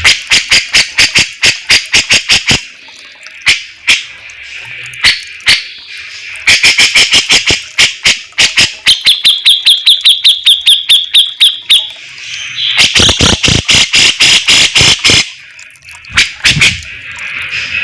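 Brown-cheeked bulbul (cucak jenggot) song: bouts of rapid, loud repeated notes, several a second, broken by short pauses, with an even high trill in the middle. The recording is loud enough to distort.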